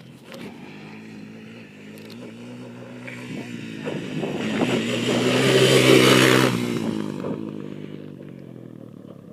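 Motorcycle engine passing by: the sound grows steadily louder to a peak about six seconds in, then fades as the bike rides away.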